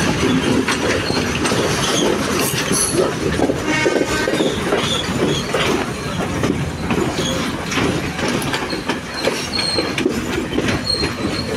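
Passenger train rolling along the track: steady wheel-and-rail rumble with irregular clattering over rail joints and points, and brief high wheel squeals now and then.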